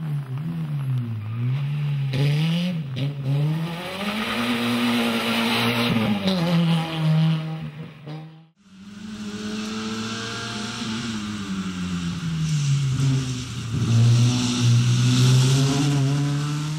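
Peugeot 106 rally car engine revving hard on a slalom run, its note climbing and dropping again and again with throttle lifts and gear changes. A brief cut about eight and a half seconds in leads to a second pass, and that pass is loudest near the end.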